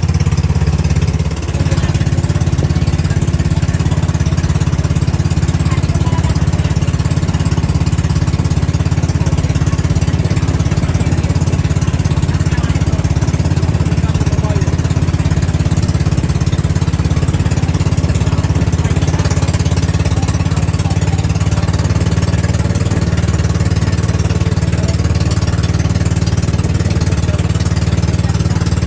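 Boat engine running loud and steady at a constant speed.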